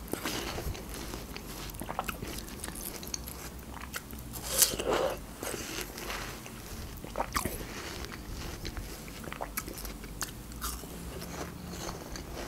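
Close-up eating sounds of a person biting into and chewing pieces of raw watermelon: wet, juicy crunches and mouth clicks, with the loudest bite about halfway through.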